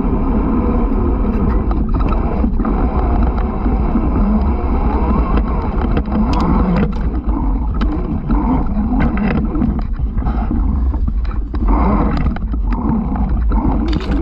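Off-road motorbike riding: steady motor and wind rush on the camera, with scattered sharp knocks and clatter.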